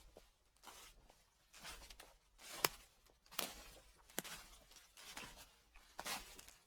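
Footsteps on fallen leaves, each step a short rustling crunch. About seven steps come at a slow, even walking pace.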